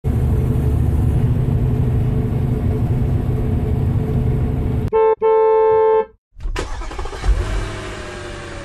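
Semi truck's engine running steadily, then its horn sounds twice about five seconds in, a short blast and a longer one. After a brief gap comes vehicle noise with a slowly falling tone.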